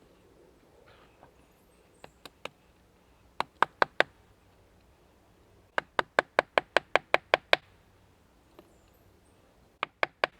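Hammering in quick runs of sharp, ringing blows: a few light taps, then four hard blows, then about ten at roughly six a second, and two more near the end.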